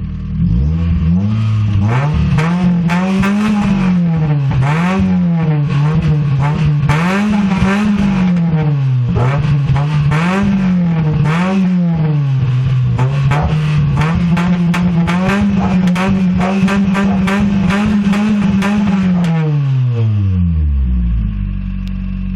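Mazda 323F BG 1.8-litre SOHC four-cylinder engine running with no exhaust fitted, so the raw exhaust note is open and crackly. It is revved up and down repeatedly, then held at higher revs for several seconds before dropping back to idle near the end.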